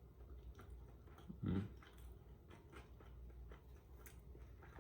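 A person chewing food, faint, with small clicks and one short louder low sound about a second and a half in.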